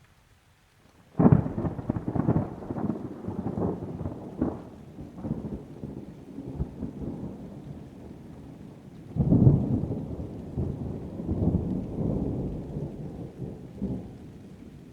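Two peals of thunder. The first breaks suddenly about a second in with a crackling clap and rolls on, slowly dying down. A second rumble swells about nine seconds in and fades near the end.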